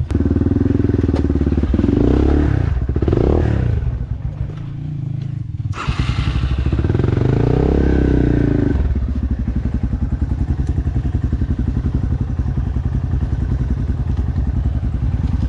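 Dirt bike engine revved up twice, then settling into a steady idle for the second half.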